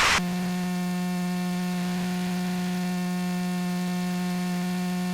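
Steady electrical hum on the aircraft's intercom audio feed, one unchanging pitch with overtones that sets in just after the talk stops.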